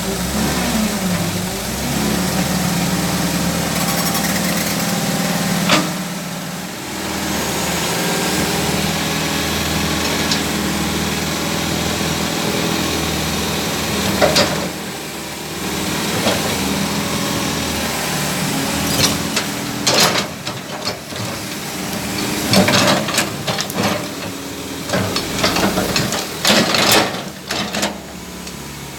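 Hydraulic excavator's diesel engine running steadily, with a few sharp knocks about 6 and 14 seconds in and a cluster of knocks and clatter in the last third.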